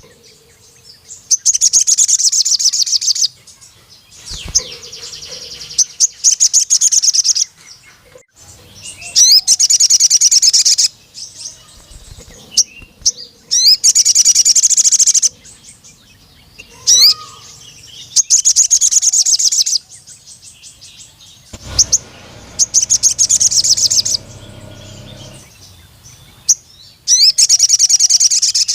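Male sogon sunbird singing: repeated bursts of very fast, high-pitched trilling, each about two seconds long, with single sharp chirps between the bursts.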